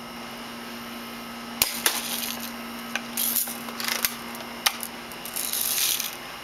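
BB rifle being worked and fired: several sharp clicks and snaps, the loudest about one and a half and four and a half seconds in, with short hissing bursts between them, over a steady low hum.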